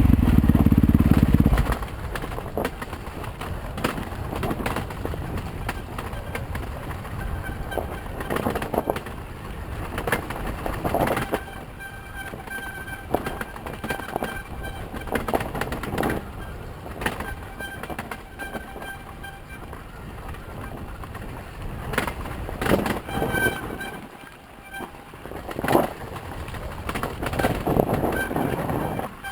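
Yamaha YZ250FX four-stroke dirt bike on a trail: the engine is loud for the first second or so, then drops to low running as the bike rattles and clatters over rough ground. Intermittent thin high-pitched squeals come and go.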